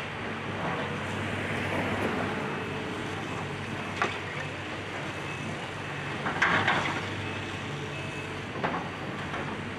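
Excavator's diesel engine running steadily, with sudden crashes and clatter of demolition debris, the loudest a short cluster about six and a half seconds in.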